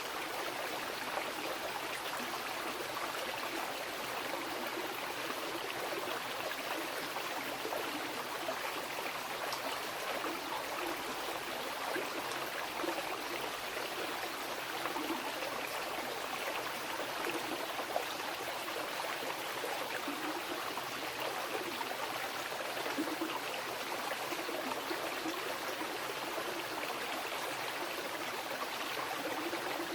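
Mountain river flowing over rocks: a steady rushing with small gurgles and splashes.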